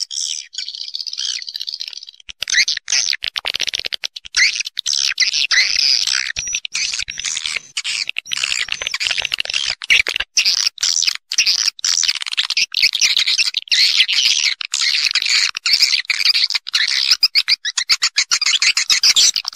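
Swiftlets calling: a dense, unbroken chatter of rapid high chirps and twitters from many birds. It is lighter for the first couple of seconds, then packed tight. This is a swiftlet roosting call of the kind played to lure swiftlets into a nesting house.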